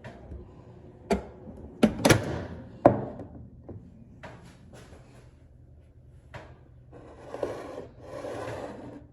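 Household objects being handled: several sharp knocks in the first three seconds, lighter taps after, then a rustle near the end.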